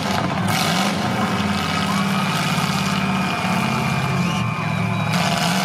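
Demolition derby car engines running hard and revving, rising and falling in pitch as the wrecked cars shove against each other, with a faint steady high whine over them.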